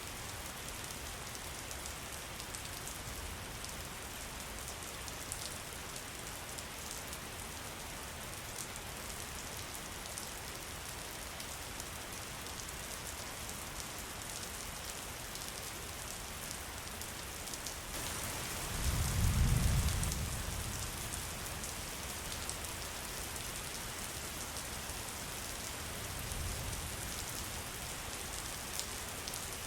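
Steady rain falling, a dense patter of drops. About two-thirds of the way in, a low rumble swells for a couple of seconds and fades, and a fainter one follows near the end.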